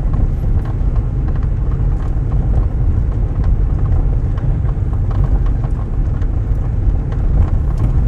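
Car driving slowly, heard from inside the cabin: a steady low road and engine rumble with scattered small ticks and knocks.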